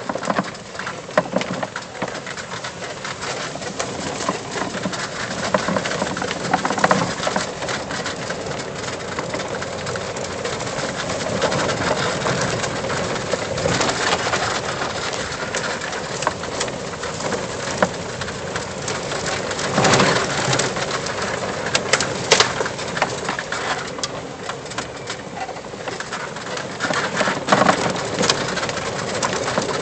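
Lifted cart driving over a rough woodland trail: a steady rumble of tyres and running gear with frequent rattles and knocks over bumps, loudest about twenty seconds in.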